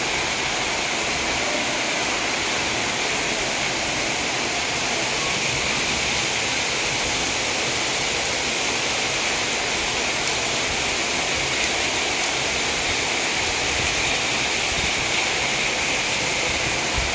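Heavy rain falling steadily, an even unbroken hiss of water.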